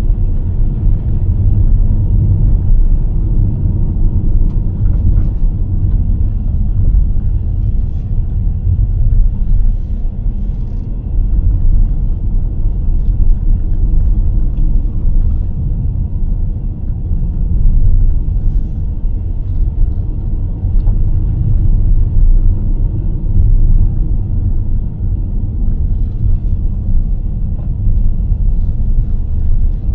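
A car driving along a road with a steady low rumble of road and engine noise. A few faint small clicks sound now and then.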